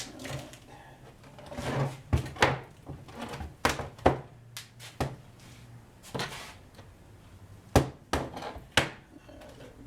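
Irregular series of knocks and clunks, about a dozen, from the window frame, broken door glass and nearby objects being handled and set down, over a faint steady low hum.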